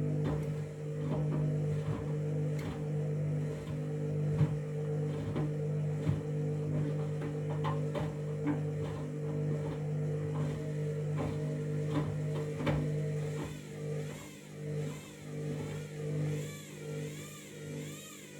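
Washing machine drum turning with a wet bath mat inside: a steady motor hum with irregular knocks as the load tumbles, then, from about two-thirds of the way through, a motor whine that wavers up and down about once a second.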